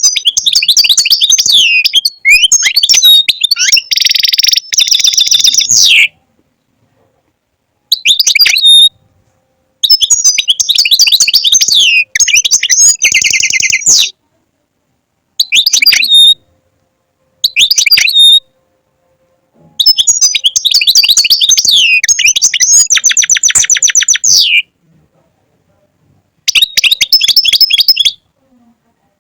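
European goldfinch singing close to the microphone: phrases of rapid, high twittering, several ending in a buzzy trill, separated by short pauses.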